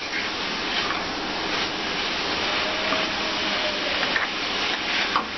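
Minced meat frying in oil in a kadai, a steady sizzling hiss, with a few scrapes of a wooden spatula stirring through it.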